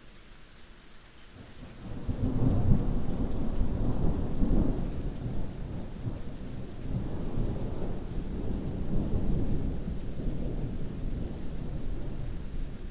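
Thunder rolling over heavy rain. A deep rumble swells up about two seconds in, is loudest over the next few seconds, then rolls on in waves over the hiss of the rain.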